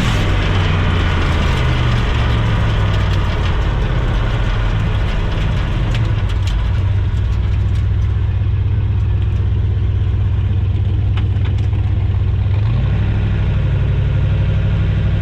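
Turbocharged LS V8 in a Nissan pickup running at low revs, a steady low rumble whose note steps up about thirteen seconds in. A few light ticks come in the middle.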